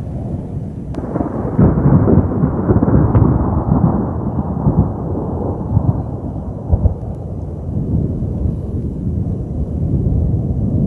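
Thunder from a nearby lightning strike: a sudden crack about a second in, then a long rolling rumble that slowly fades.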